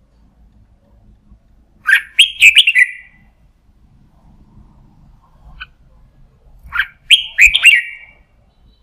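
Red-whiskered bulbul singing: two short phrases of quick, loud notes about five seconds apart, with a faint single note between them.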